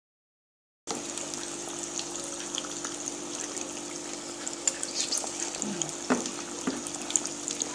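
Maakouda potato fritters deep-frying in hot oil: steady sizzling with scattered crackles and pops, over a faint steady hum. It starts suddenly about a second in.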